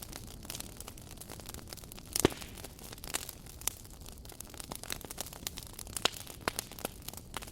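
Campfire crackling: a steady low hiss under frequent sharp pops and snaps of burning wood. The loudest pop comes about two seconds in and another strong one about six seconds in.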